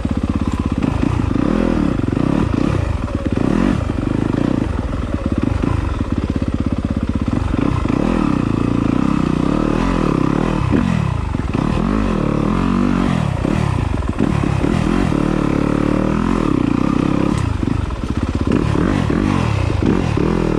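Yamaha enduro dirt bike engine being ridden over rocks, the revs rising and falling over and over as the throttle is blipped and rolled off.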